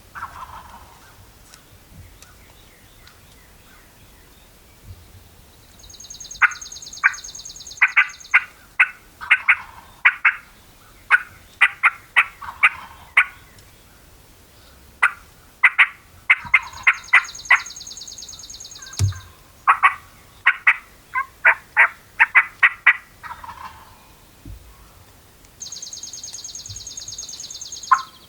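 Wild turkey yelps and cutts: long runs of short, sharp, loud notes in quick series, repeated several times, with a higher buzzing sound held for a couple of seconds before each run.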